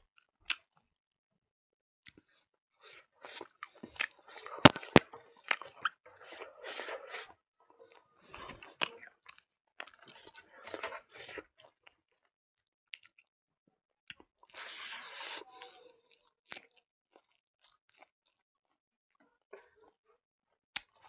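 A person chewing and crunching mouthfuls of food in several bursts, with two sharp clicks about five seconds in.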